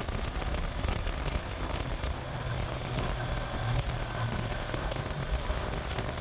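Suzuki GN125 motorcycle on the move: a steady rush of wind and road noise with a crackling, rain-like texture, and the single-cylinder engine's low hum coming up in the middle.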